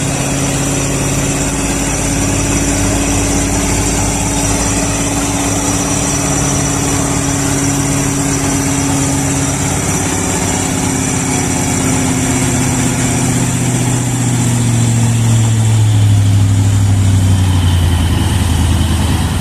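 Heavy vehicle's engine running steadily. Its pitch sinks a little past the middle and then settles lower and slightly louder over the last few seconds.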